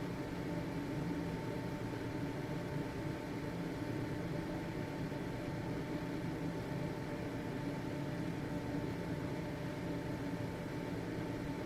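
Household ventilation fan running steadily: an even motor hum and airflow whir with a faint, thin high tone riding on top.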